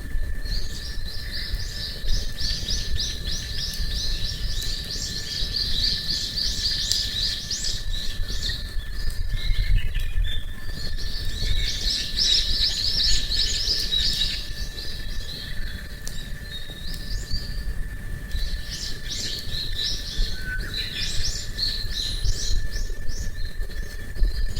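A small songbird singing long, rapid twittering phrases, three of them with short pauses between.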